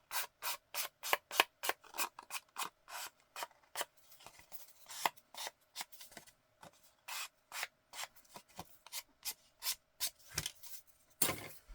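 Emery board being rubbed along the edge of a paper page to distress it for inking, in short quick scraping strokes, about three a second, with a brief pause midway.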